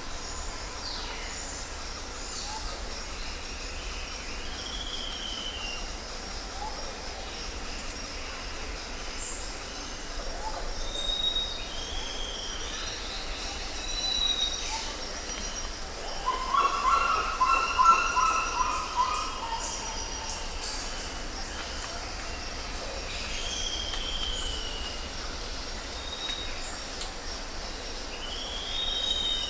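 Jungle ambience: insects buzzing high and steady, with birds giving short arched calls every few seconds. A little past the middle, a louder, lower call of several stacked tones lasts about two seconds.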